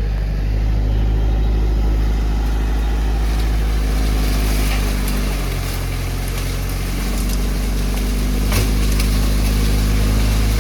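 Tractor engine running steadily; its pitch dips a little around the middle and comes back up. A single sharp crack comes about eight and a half seconds in.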